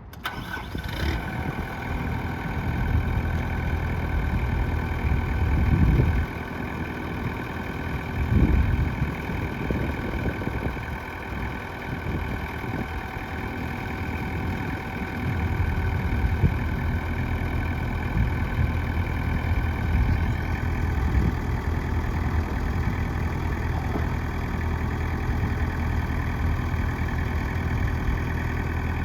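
Kubota M820 narrow loader tractor's diesel engine running, mostly at a steady idle, with brief rises around six and eight and a half seconds before settling into a steady run from about fifteen seconds.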